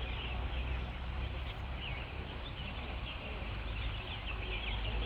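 Small birds chirping continuously, many quick high chirps, over a steady low rumble.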